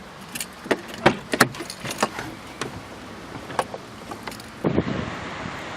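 A string of sharp clicks and knocks from handling things inside a car's cabin, then from about five seconds in a steady rushing noise like wind on the microphone.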